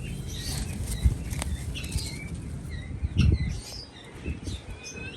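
Pigeons flapping their wings in bursts, loudest about a second in and just after three seconds, with short high bird chirps scattered throughout.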